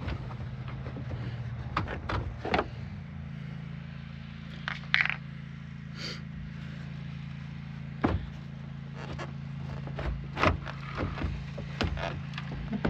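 Scattered sharp plastic clicks, knocks and scrapes of a truck headlight assembly being worked loose and handled, over a steady low hum.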